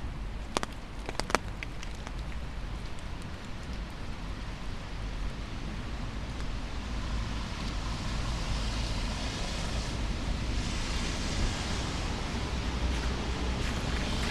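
Rainy city street ambience: a steady wash of rain and wet-road traffic noise over a low rumble, with a few sharp clicks about a second in. A hiss grows louder from about halfway through.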